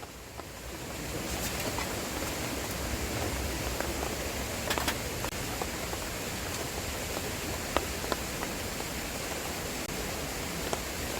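Flame hissing steadily in a Swedish torch, rising about a second in and then holding level, with a few sharp crackles.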